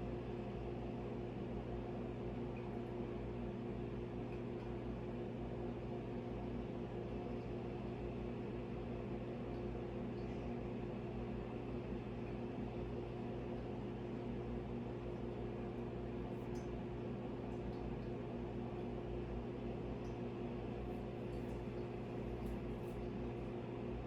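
Steady low mechanical hum, with a few faint ticks in the second half.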